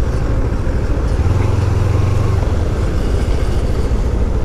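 Kawasaki Ninja 300's parallel-twin engine running while riding, under a heavy, steady low rumble of wind and road noise on the microphone, with a steadier low hum for about a second in the middle.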